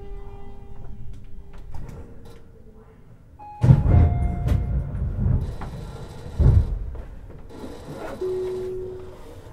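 Under-floor sounds of a Tobu 50090-series electric train at a stop: a low drone with a faint steady whine, then two heavy thumps with a rush of air, about three and six and a half seconds in, and a short steady tone near the end.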